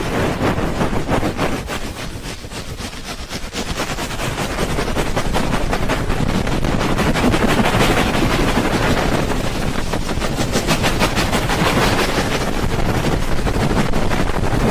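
Rapid, rhythmic rubbing of a binaural microphone's ears, the ASMR 'helicopter' ear-rubbing technique, giving a fast run of whooshing strokes that builds up over the first few seconds.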